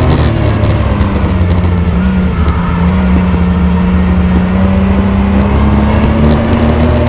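Race truck's engine running hard and loud, its pitch dipping about a second in and then climbing slowly again as it accelerates.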